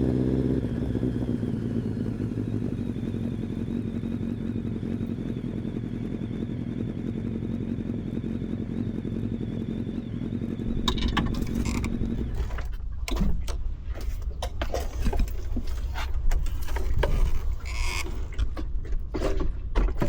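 Kawasaki ZX-10R's inline-four engine drops back from a rev to a steady idle, then is switched off about twelve seconds in. Scattered clicks, knocks and scrapes follow.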